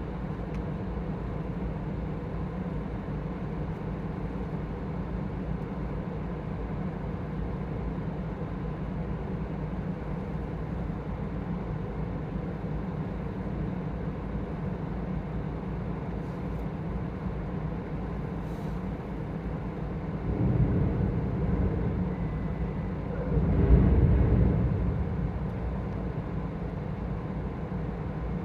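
Steady low machinery drone of a large ferry, with two louder low rumbles swelling about twenty and twenty-three seconds in, the second the loudest.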